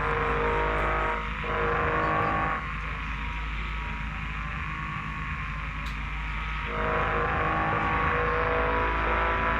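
Mitsubishi L300 van driving: a steady engine and road drone with several held tones over it. The middle band drops away for about four seconds partway through, then comes back.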